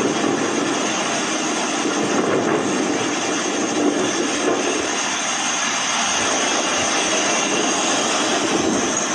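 Strong hurricane wind blowing: a steady, loud rushing noise that holds level throughout.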